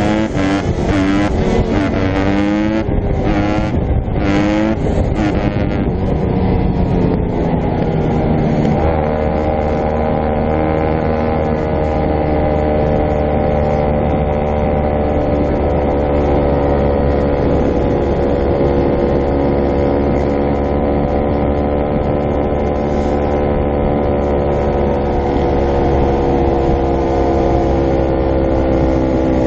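Dirt bike engine revving up and down for the first several seconds, then running at a steady, slowly falling pitch as the bike rides along.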